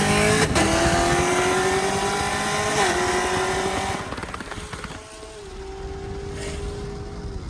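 A vehicle engine accelerating hard, its pitch climbing, dropping at an upshift about three seconds in, then climbing again. It fades quickly after about four seconds as the vehicle pulls away.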